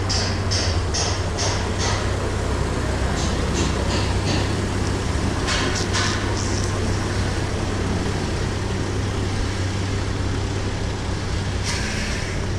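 Vehicle engine idling steadily, with runs of short, quick high ticks in the first couple of seconds and again a few seconds later.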